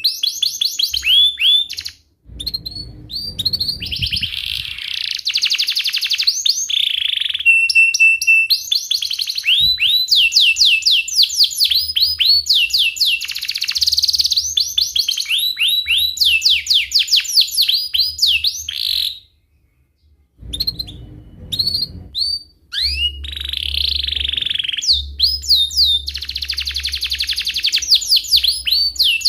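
Domestic canary singing at length: fast rolling trills of quickly repeated falling notes, broken by a few short steady whistles, with two brief pauses in the song.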